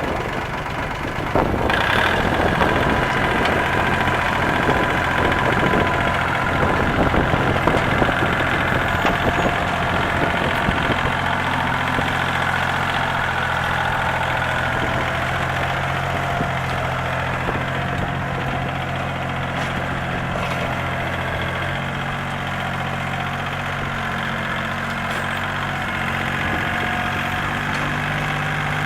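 Kubota L2250 tractor's three-cylinder diesel engine running. About a second and a half in it suddenly gets louder and runs a little unevenly, then settles into a steady idle for the rest of the time.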